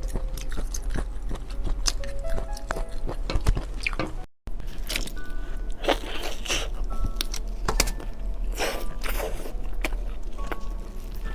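Background music with close-miked eating sounds: many small crunches, clicks and mouth smacks of chewing food. The sound cuts out for a moment about four seconds in.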